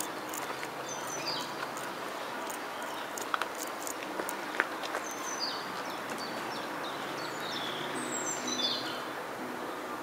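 Small birds chirping in short, quickly falling phrases over a steady outdoor background noise, with a couple of sharp ticks around the middle.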